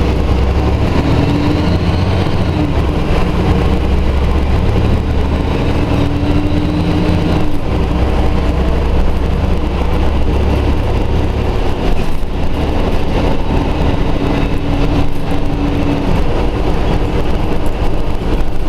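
Scania Omnidekka double-decker bus running under way, with a steady low engine rumble. A drawn-out whine comes and goes twice over it. The rumble eases briefly about halfway through, then picks up again.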